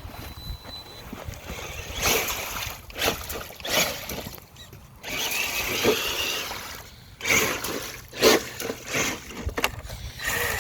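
Electric motor of a Traxxas TRX-4 Sport RC mud truck whining in short throttle bursts, about eight of them, with water splashing as the truck drives through a strip of water.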